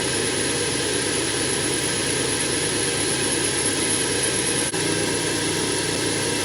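L5P Duramax 6.6-litre V8 turbo-diesel with a big turbo running steadily: a loud, even hiss and a thin high whistle over a rough low engine note, with a brief break about four and a half seconds in.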